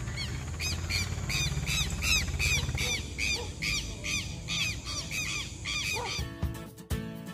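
A bird calling over and over: a run of short, harsh, arching notes, about three a second, over a low background rumble. About six seconds in the calls stop and music begins.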